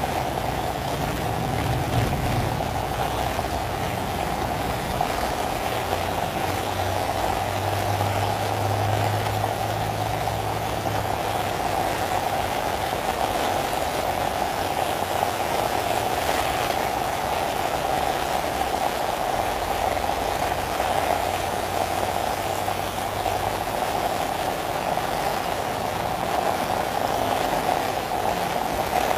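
Heavy rain drumming steadily on an umbrella overhead, with a low rumble underneath that is strongest in the first ten seconds or so.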